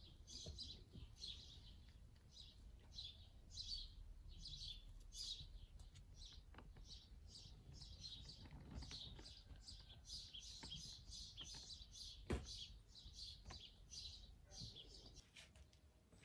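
A small bird chirping over and over, short high chirps at about two to three a second, stopping shortly before the end. A faint knock sounds about twelve seconds in.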